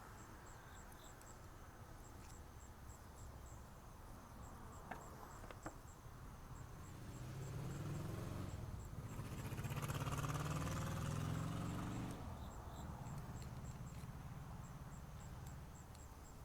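Crickets chirping faintly and steadily in the background, with a couple of small clicks about five seconds in as parts are handled. A low rumble swells in the middle and fades away a few seconds later.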